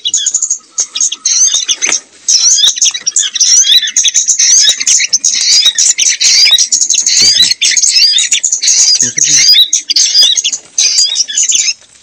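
Many small songbirds chirping and squawking loudly, with dense, rapid, overlapping high notes and only brief breaks about two seconds in and again near the end.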